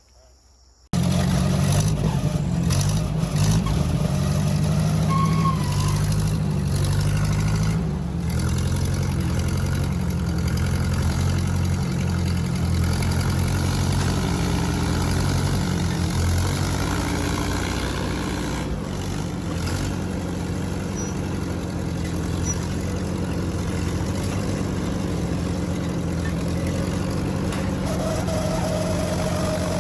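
Farm tractor engine running hard, its pitch shifting up and down, as tractors pull a stuck tractor out of a mud rut. It starts suddenly about a second in.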